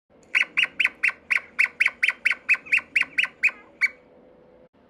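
A bird's rapid series of short, sharp squawks, about sixteen calls at roughly four a second, stopping about four seconds in; it is played as the call of a puffin.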